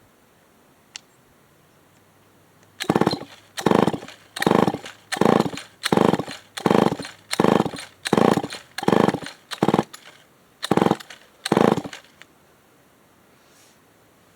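Remington SL9 chainsaw being pull-started: about a dozen quick pulls on the recoil starter cord, the engine turning over with each pull but never catching. It is not firing, as if it is not picking up fuel.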